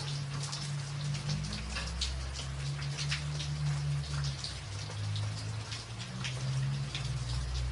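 Rain on a tin roof, with many separate drops ticking sharply over a steady hiss of rain. A low rumble runs underneath.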